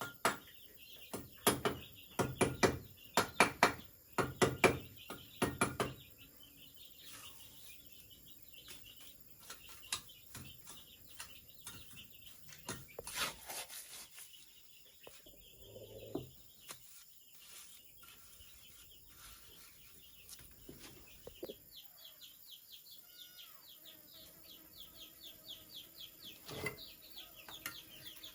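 Runs of sharp knocks, several in quick succession, during the first six seconds, then scattered lighter taps with birds chirping and a fast insect-like ticking toward the end.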